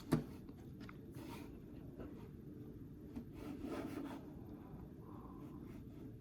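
Quiet room noise with a low steady hum, a sharp click right at the start, and a soft rubbing rustle a little past halfway.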